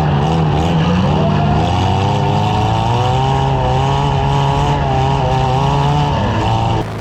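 Compact demolition derby car engines running loud, their pitch wavering up and down with the throttle. The sound drops off suddenly just before the end.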